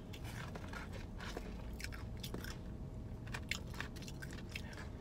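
Close-up chewing of crunchy fried batter, with irregular crisp crunches between bites.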